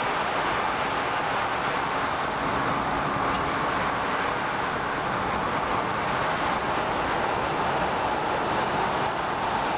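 Steady running noise of a Stockholm commuter rail X10 electric multiple unit heard from aboard, wheels rolling on the track with a faint humming tone over the rumble.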